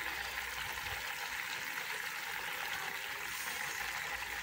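Chicken and potatoes cooking in an aluminium pot, giving a soft, steady sizzling hiss.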